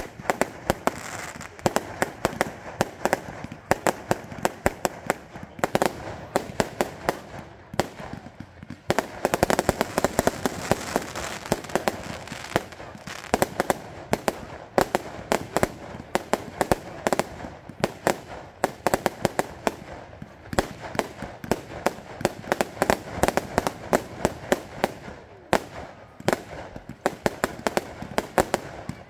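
Fireworks going off in a rapid, continuous barrage of sharp bangs and crackling, easing briefly about eight seconds in and then thickening again.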